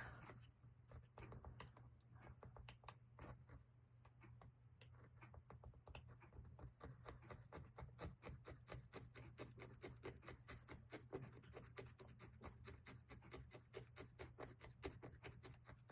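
Felting needle jabbed repeatedly up and down into wool roving on a foam block: faint, quick pokes, several a second.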